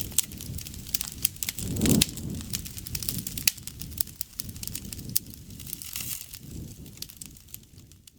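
Campfire burning, with frequent sharp crackles and pops over a low rumble of flame. The fire swells louder for a moment about two seconds in.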